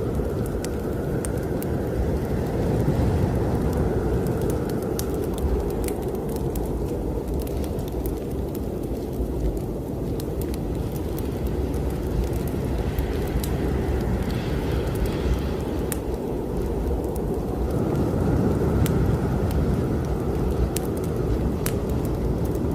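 Strong winter storm wind blowing steadily, with a whistling tone that swells and fades twice, over the scattered crackles and pops of a wood fire in a fireplace.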